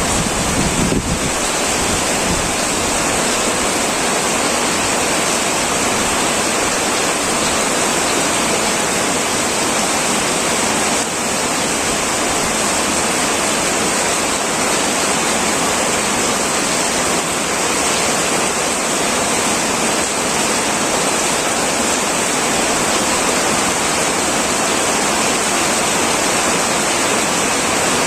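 Heavy rain pouring steadily on a tin roof, a dense, even hiss with no let-up. There is a brief low rumble in the first second or so.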